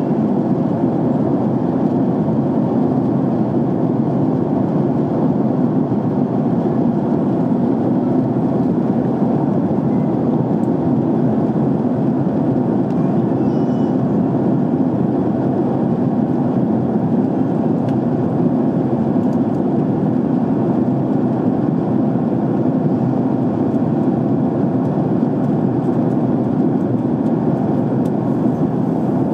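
Airliner cabin noise in flight: a steady, low, even rushing noise that does not change.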